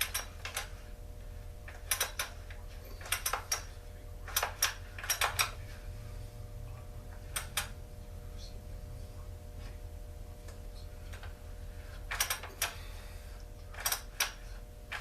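Sharp clicks and clacks of small hard parts and tools being handled on a workbench during a chainsaw teardown. They come in short clusters a second or so apart over a steady low hum.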